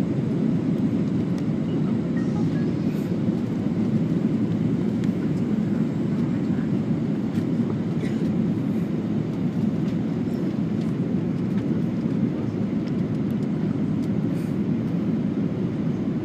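Steady cabin noise of an Air Canada Airbus A320: an even rumble of engines and airflow heard from inside the passenger cabin.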